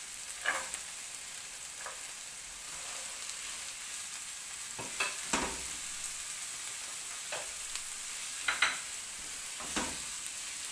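Sliced onions and diced carrots sizzling in oil in a nonstick pan, stirred with a silicone spatula that scrapes and knocks against the pan several times.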